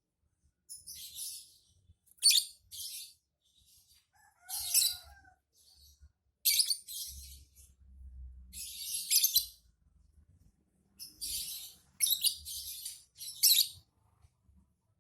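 Lovebird singing in rapid, high-pitched chattering phrases, a string of short bursts with brief gaps between them.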